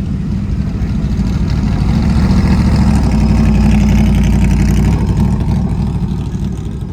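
A car's engine running as the car passes close by, growing louder to a peak midway and then fading.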